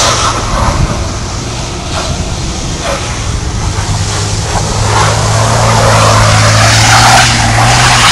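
Jeep Grand Cherokee engine running under throttle as its wheels spin through slushy snow while doing donuts. The engine drone grows louder in the second half.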